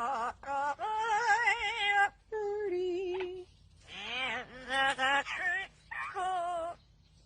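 Birds giving a series of loud, wavering, warbling calls, each lasting up to about two seconds, with short gaps between them and a pause near the end.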